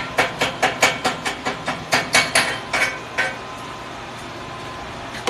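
Chipping hammer knocking slag off a freshly laid weld on steel plate: rapid metallic strikes, about four or five a second, stopping about three seconds in. A steady low hum remains after.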